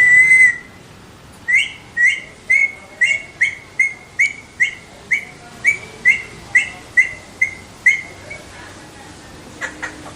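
Alexandrine parrot calling: one longer call at the start, then a run of about fifteen short, evenly spaced calls, a little over two a second, that stop about eight seconds in.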